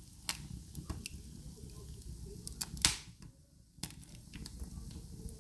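Popcorn kernels popping over an open fireplace fire: a scattering of sharp, irregular pops, the loudest near the middle, over a low steady rumble.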